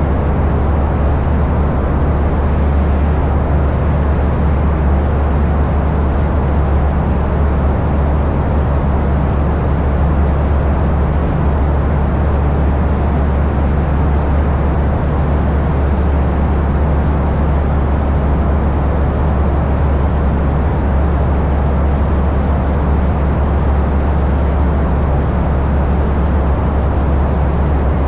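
Steady, loud engine drone with a strong low hum that holds unchanged throughout, the sound of a vehicle running at constant power.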